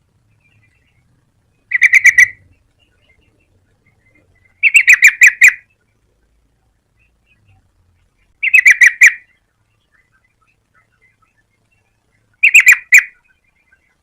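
Yellow-vented bulbul calling in four short bursts of rapid, clipped notes, several seconds apart.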